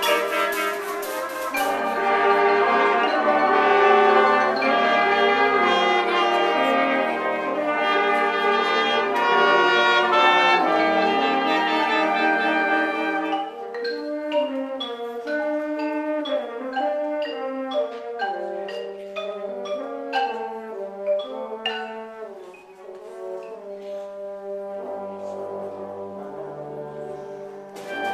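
Band music with brass: a full, loud brass passage for about the first half, then a lighter section with sharp struck notes from mallet percussion under sparser brass lines.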